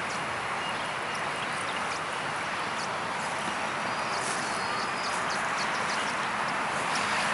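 Small birds chirping in short, high notes over a steady rushing background noise.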